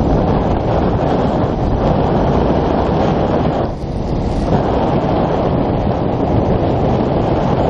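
Heavy wind noise buffeting the microphone, a loud steady rumble that briefly drops away about four seconds in.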